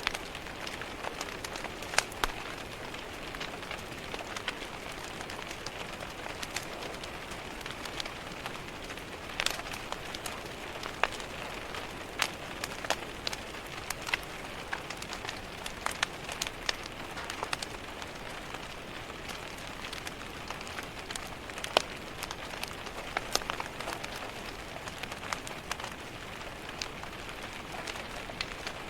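Steady rain on a window mixed with a crackling wood fire: a constant hiss with irregular sharp pops and ticks scattered through it.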